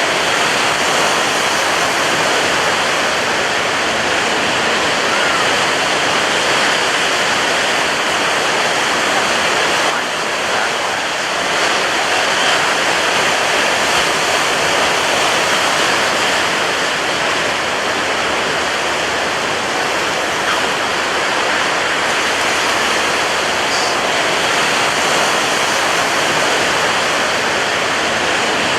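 Heavy surf breaking on a beach: a loud, continuous rush of churning water with no gaps between waves, dipping slightly about ten seconds in.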